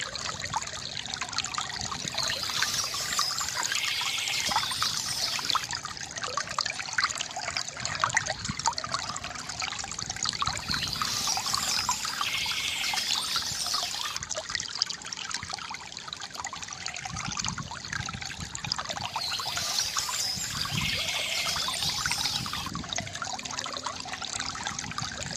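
Stream water trickling and splashing steadily. A brighter, higher sound swells three times, about eight seconds apart and the same shape each time, as in a looped recording.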